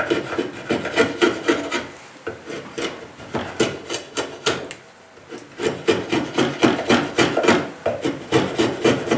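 Handmade draw knife, forged from a coil spring, shaving oak: a run of short cutting strokes, several a second, with a brief pause about halfway through.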